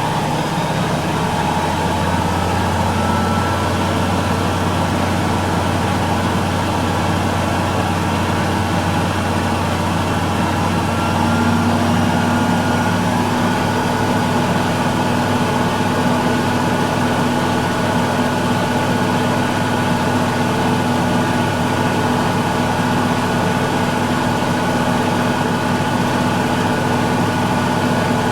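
Miele Little Giant PWM507 commercial washing machine in its final spin at 1200 rpm, the drum and motor running with a steady hum and whine. The pitch and loudness step up slightly about eleven seconds in.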